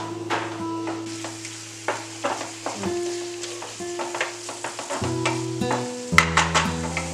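Wooden spatula stirring and scraping diced potatoes in spiced onion masala in a frying pan, with irregular taps and scrapes over a light sizzle. Soft background music with sustained low notes plays underneath.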